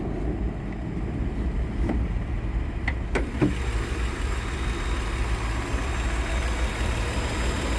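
Nissan 3.5-liter V6 (VQ35DE) idling steadily with the hood open, a low even engine hum with a couple of faint clicks about three seconds in.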